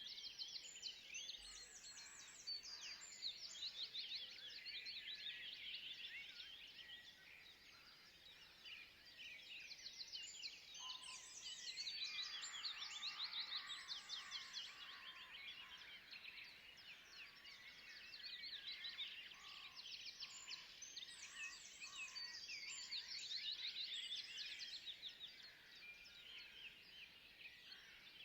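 Forest bird chorus: many small birds chirping rapidly over one another. The chorus swells and fades in waves about every ten seconds, with a few lower calls mixed in during the louder stretches.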